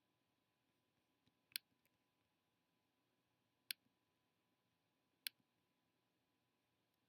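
Computer mouse clicking: three sharp single clicks a second or two apart, with a few faint ticks near the first, over near silence.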